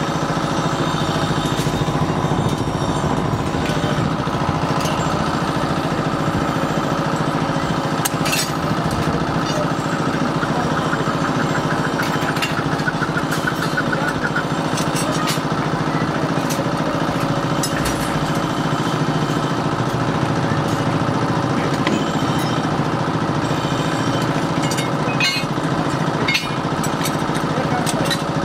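A machine's motor running steadily at an even pitch, with a few sharp clicks.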